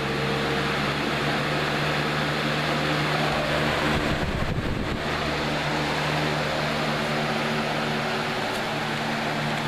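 Lasko 3733 box fan running on medium speed: a steady rush of air with a low motor hum, growing louder in the first moment as the blades spin up from low.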